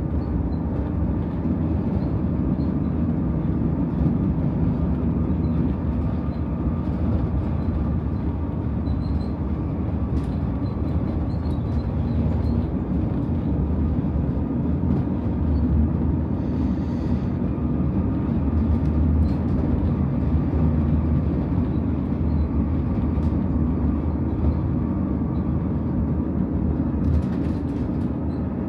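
Stockholm commuter train running along the line, a steady low rumble of wheels and running gear heard from inside the carriage.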